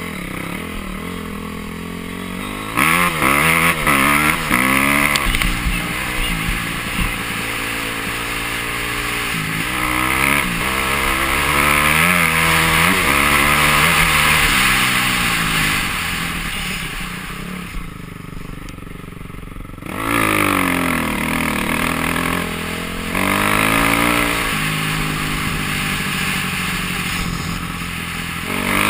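Dirt bike engine revving up and falling back again and again as the throttle opens and closes, over a steady rushing noise. About two-thirds of the way through it drops quieter for a couple of seconds, then picks up again.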